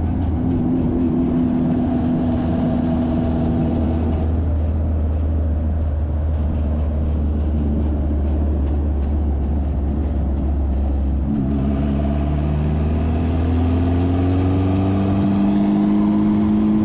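Car engine heard from inside the cabin while driving, holding a steady note for about ten seconds. Then the note climbs as it accelerates over the last few seconds.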